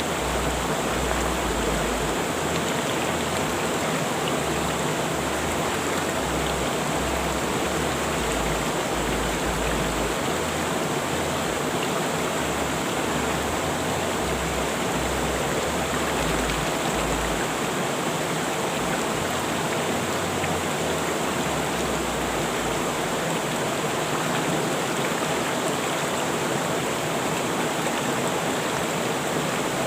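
River water rushing over rocks: a steady, even roar of flowing water with no letup.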